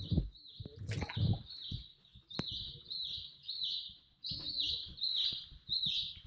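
A bird calling over and over in a quick series of high, short chirps, each dropping slightly in pitch, with a few low knocks underneath.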